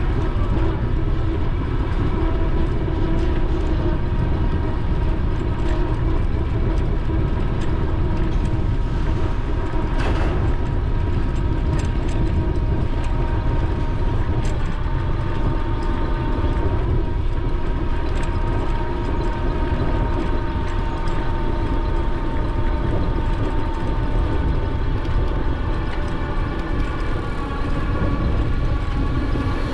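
Steady wind and rolling rumble on the action camera's microphone while riding an electric bike, with a thin, steady whine running over it.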